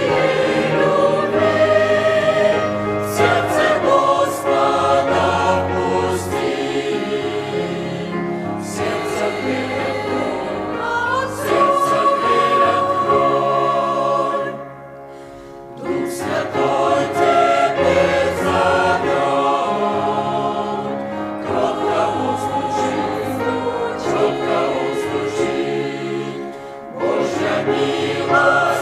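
Church choir singing a Russian hymn in sustained phrases, with a short break between phrases about halfway through.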